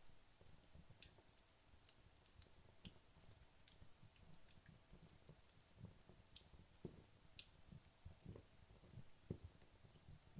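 Wood logs burning in a fireplace: faint, irregular crackling made of scattered sharp ticks and pops, with a few louder pops in the second half.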